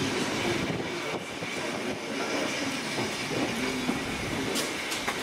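Railway passenger coaches rolling slowly through a station, their wheels clicking over the rail joints with a faint, thin high squeal.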